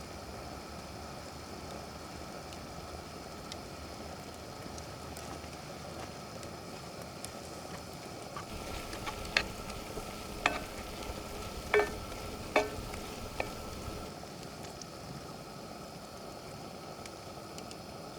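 Food sizzling as it cooks, a steady hiss. Around the middle come five sharp clinks or knocks, the loudest sounds here.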